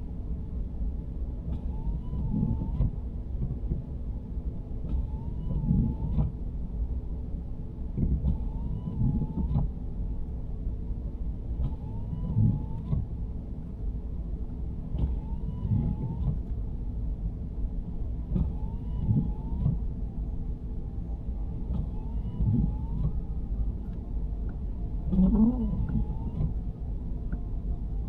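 Inside the cabin of a 2023 Nissan Sentra driving in snow: a steady low road and engine rumble, with the windshield wipers sweeping about every three and a half seconds, the rubber blades making a short groaning squeak across the glass on each pass.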